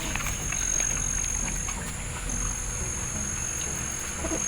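A steady high-pitched insect drone, broken briefly about halfway, over a low rumble with scattered small clicks.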